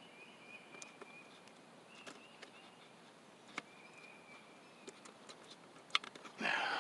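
Faint lakeside outdoor ambience: a thin, high wavering call comes and goes twice, over scattered small clicks. A short burst of noise comes near the end.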